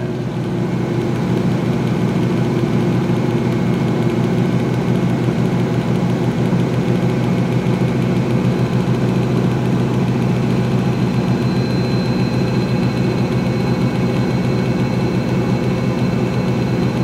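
2006 GE Profile top-loading washing machine in a high-speed spin, its motor and basket running with a steady hum. A faint high whine joins in about two-thirds of the way through.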